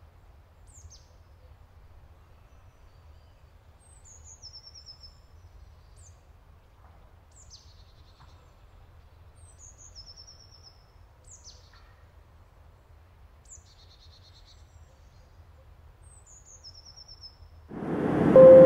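A small songbird singing the same short phrase over and over, about every two seconds: a quick high falling note followed by a thin trill, over a faint low hum. Near the end a loud rushing noise cuts in, with a short steady tone sounding inside it.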